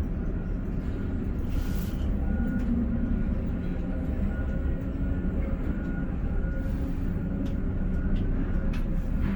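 Container crane's drive machinery running steadily: a low rumble with a faint steady whine and a few light clicks.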